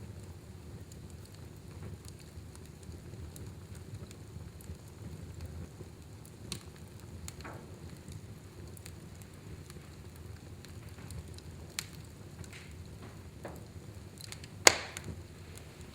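Fireplace fire burning with a steady low rumble and scattered crackles, and one sharp loud pop near the end.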